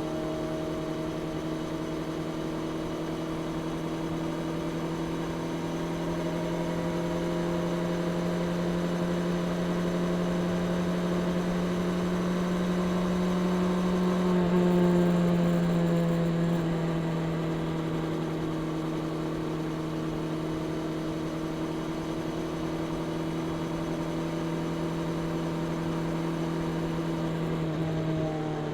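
Honda CB650R's inline-four engine with its stock exhaust, running steadily while riding. The pitch creeps up to a louder peak about halfway through, settles back to a steady cruise, and drops near the end as the bike slows.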